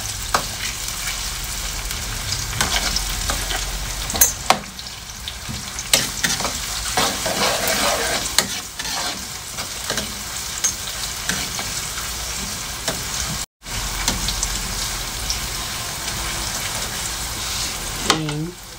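Chopped garlic and white onion sizzling in hot oil in a steel wok, stirred with a metal spatula that scrapes and clicks against the pan now and then.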